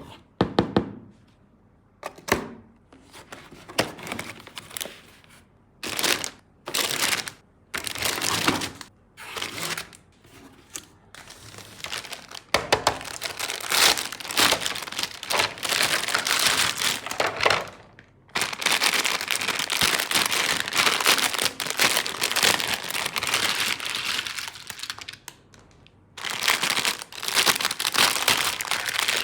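Packaging being unwrapped from a toy tool set: plastic crinkling and rustling, with some tearing. It comes first in short handling bursts, then as longer stretches of continuous crinkling.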